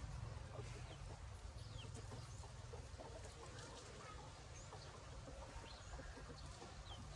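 Faint, scattered short chirps of birds, each falling in pitch, over a steady low rumble.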